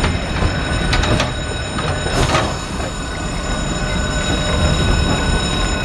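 Vintage passenger coaches of a heritage train rolling slowly past, wheels rumbling on the rails, with a couple of sharp clicks about a second in and a short hiss a little after two seconds.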